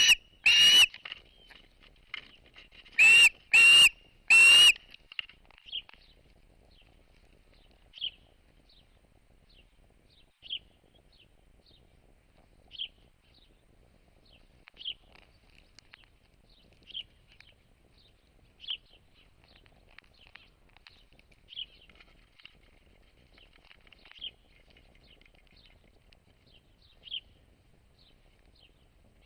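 A bird calling: loud whistled notes, one near the start and three in quick succession about three to four and a half seconds in, then a soft short chirp repeated every two seconds or so.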